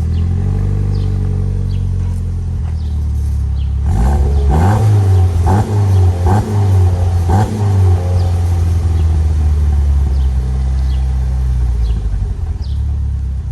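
2008 Mitsubishi Lancer Evolution X MR's turbocharged 2.0-litre four-cylinder idling through a cat-back exhaust with mufflers, then revved four times in quick succession from about four seconds in, before settling back to idle.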